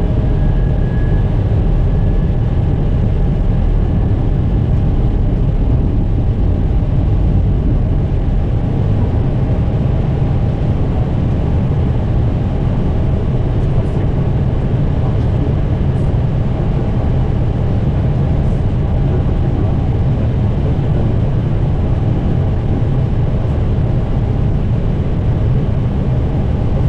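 Steady rumble of an Airbus A320's flight deck in flight: airflow and engine noise, strongest in the low end, with faint steady tones above it.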